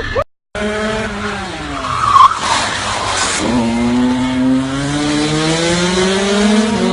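Motorcycle engine dropping in pitch, then accelerating with a steady rising pitch. About two seconds in there is a brief tyre squeal and a short burst of skidding noise.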